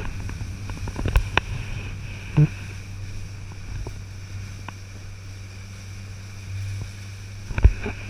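Speedboat engine running steadily with a low hum, with a few sharp thumps, the loudest near the end.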